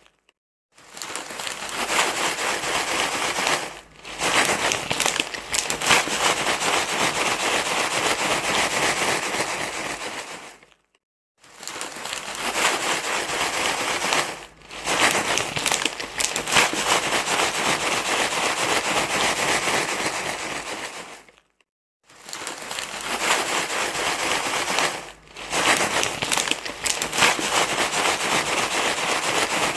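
Dense crinkling, rustling noise full of fine crackles, played as a loop to soothe a crying baby. It runs in long stretches with short dips, and breaks into brief silence right at the start, about 11 seconds in and about 22 seconds in.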